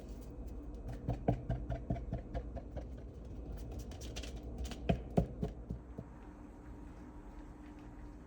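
A run of light clicks and taps from small objects being handled, in a cluster about a second in and another around four to five seconds, over a low steady hum.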